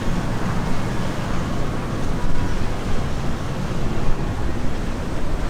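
Steady rumble of passing boat engines mixed with churning wake water, with some wind on the microphone.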